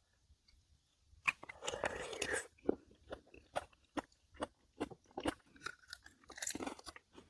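A person chewing raw seafood close to the microphone, in wet, crunchy bites. There is a sharp bite about a second in, then a denser noisy stretch, then steady chewing of about two to three chews a second.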